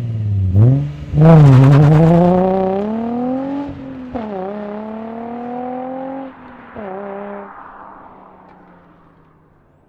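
Datsun 240Z's engine through a Z1 Motorsports touring exhaust: its pitch drops, it gets a quick blip, then it accelerates hard through the gears, with upshifts about three and a half and six seconds in. The sound fades as the car pulls away.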